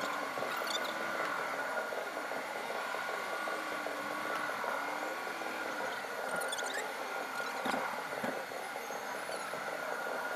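Outdoor ambience: a steady background hiss and hum with a few short high chirps about six and a half seconds in.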